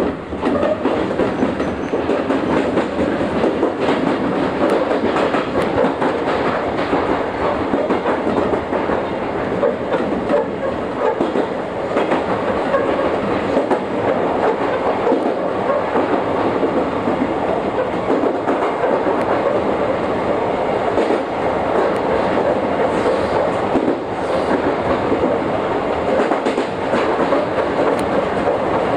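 Chichibu Railway train running steadily along the track, heard from the cab: a continuous rumble of wheels on rail with scattered clicks of wheels passing over rail joints.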